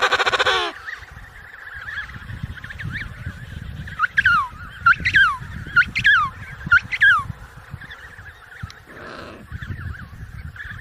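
Animal calls: a loud, buzzy, honking call that ends under a second in, then four or five sharp, falling calls about a second apart over a low outdoor rumble.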